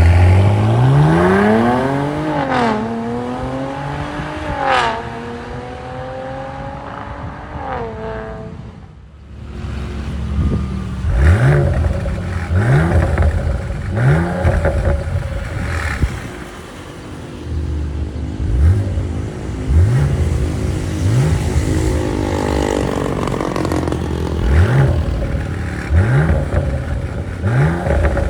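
Mercedes-Benz GLE400's twin-turbo V6 revving through a turbo-back valved aftermarket exhaust. It starts with a long rev that climbs and falls with a couple of blips, then settles. After a short lull it gives about ten quick throttle blips, each a sharp rising note, between steadier running.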